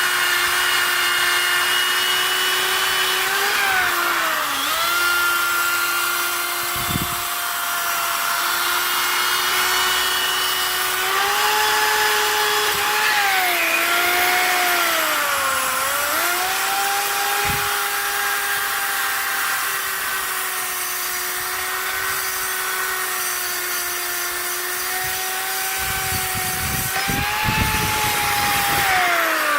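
Handheld power tool running a fiber abrasive wheel that scrubs old powder coat and corrosion off aluminium winch parts. The motor's steady whine sags in pitch several times as the wheel is pressed onto the metal, with a few knocks and harder scraping near the end, and then winds down.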